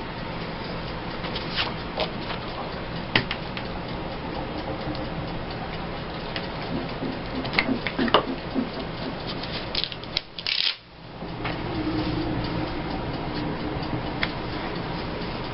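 Paper being handled and rubbed down on a table, with scattered light taps and scrapes over a steady background hum.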